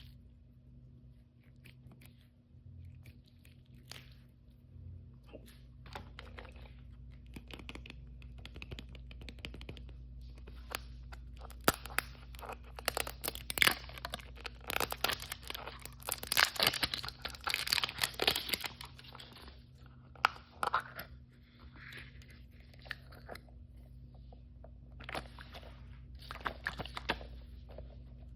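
Toy surprise packaging being torn open and crinkled by hand, with irregular crunches, clicks and scrapes, busiest around the middle. A faint steady low hum runs underneath.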